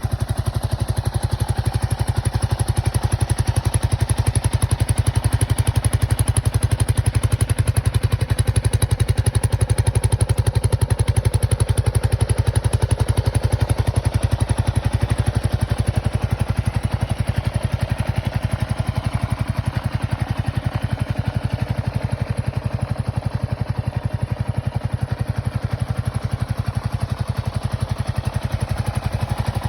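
Kawasaki KLR 500 single-cylinder motorcycle engine running at a steady speed, with fast, even exhaust pulses that do not change throughout.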